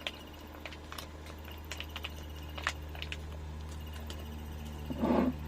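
A man eating beef, with scattered small sharp clicks of chewing and handling food, over a steady low hum. A brief voiced murmur comes near the end.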